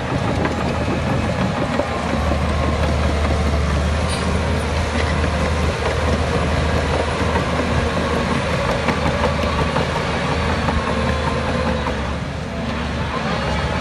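Heavy diesel earthmoving machinery running steadily under a strong low engine hum, dipping briefly in level near the end.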